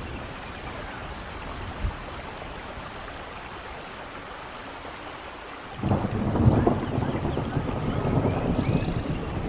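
Steady rain falling, then about two thirds of the way through a sudden loud rumble of thunder breaks in and keeps rolling over the rain.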